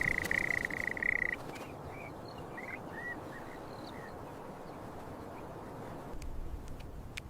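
Outdoor nature ambience: a steady high-pitched animal trill that stops about a second and a half in, followed by a few short, scattered chirps and a few faint clicks over an even background hiss.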